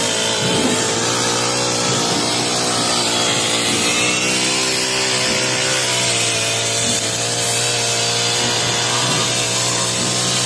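Honda four-stroke brush cutter running steadily at high revs with a metal blade, cutting tall grass.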